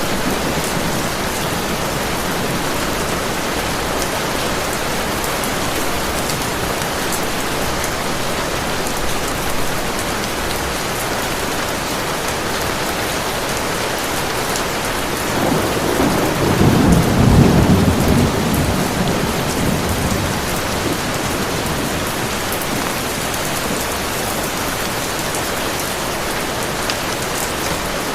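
Heavy rain falling steadily, with one low roll of thunder that swells up about halfway through and dies away over several seconds.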